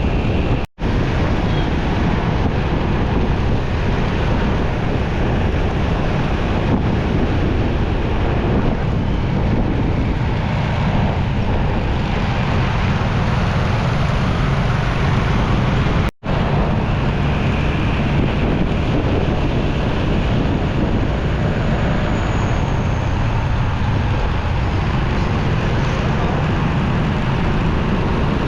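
Wind rushing over the microphone of a moving motorcycle, with the engine and road traffic underneath. The sound drops out for an instant twice, about a second in and about sixteen seconds in.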